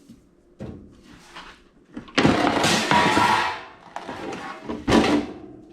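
Steel pan being drawn out of a toaster oven: a long metal-on-metal scrape with some ringing, then one sharp clank about five seconds in.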